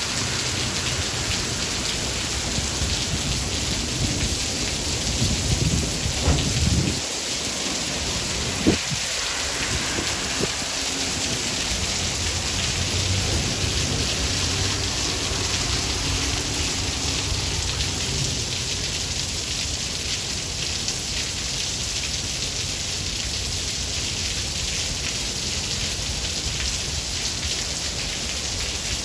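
Steady rain with thunder: a low rumble from about four to seven seconds in, a sharp clap near nine seconds, then a lower rolling rumble that fades out, leaving the rain alone.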